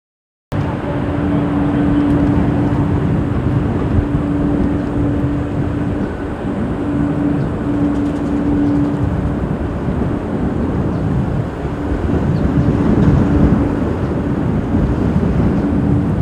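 Steady rumble of an Airbus A350-900's Rolls-Royce Trent XWB jet engines, mixed with strong wind buffeting the microphone, with a steady hum that drops in and out. The sound cuts in suddenly about half a second in.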